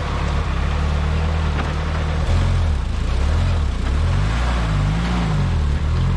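Jeep engine running, revved up and down several times in the second half while working through deep mud ruts.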